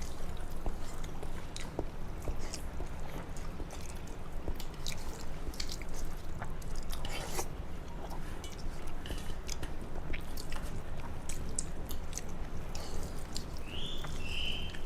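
A person chewing and eating a meal of rice with mashed vorta and egg curry, with small scattered wet mouth clicks and smacks. Two short high chirps come near the end.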